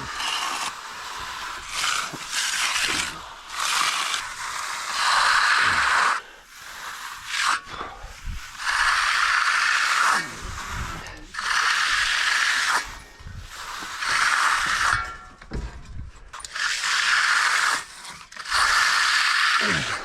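Hand finishing tool pulled across a fresh concrete slab in repeated long strokes, a gritty scraping about every two seconds.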